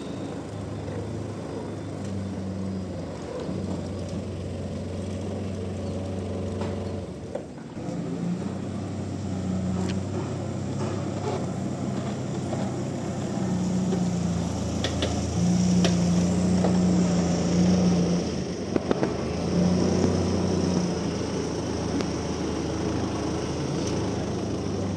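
A heavy machine's engine running at a sawmill, its low hum shifting up and down in pitch and easing off briefly now and then, with a few sharp knocks in the second half.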